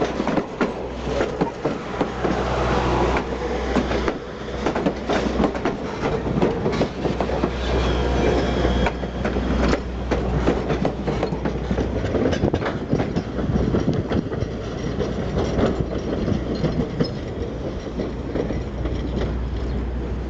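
Strasburg Rail Road passenger train, hauled by a steam locomotive, rolling past, its wheels clicking steadily over the rail joints above a continuous low rumble.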